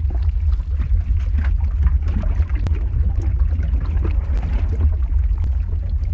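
Lava-flow ambience sound effect: a deep, steady rumble under irregular bubbling, gurgling pops and small crackles.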